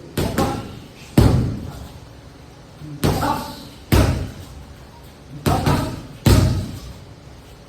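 Strikes landing on MMA striking pads in three combinations of three hits, each combination ending with the heaviest, deepest strike.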